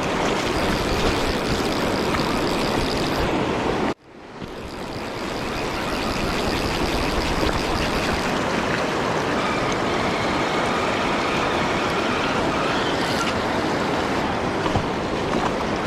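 Steady rush of river water, with wind buffeting the microphone. It cuts out abruptly about four seconds in and fades back up over a couple of seconds.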